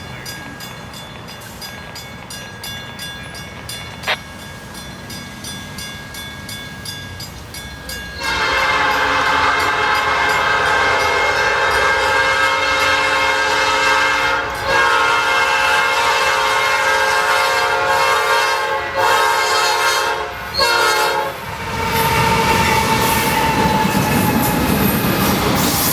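Freight locomotive horn blowing a long chord. It starts about a third of the way in and runs for around thirteen seconds, broken by a few short gaps, over the rumble of an approaching freight train. When the horn stops, the noise of the passing train carries on.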